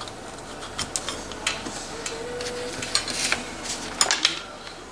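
Scattered light metallic clicks and clinks as new clutch plates, alternating friction and steel, are slid one by one onto the clutch hub of a Honda XR100 engine. The sharpest clicks come about four seconds in.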